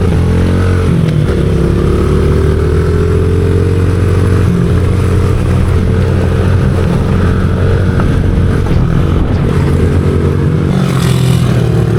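Small four-stroke pit bike engine running under way, its pitch drifting slightly down and then back up with the throttle. A brief rush of hiss comes near the end.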